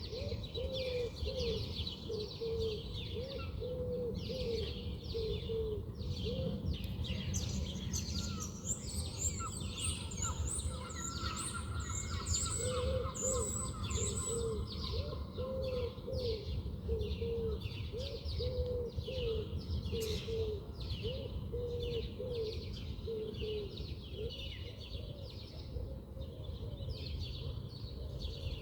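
Many small birds chirping and twittering together in quick high notes, over a run of short low calls repeated about twice a second and a steady low rumble.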